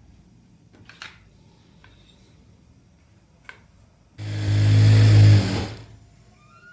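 Electric sewing machine running in one short burst of about a second and a half, after two faint clicks.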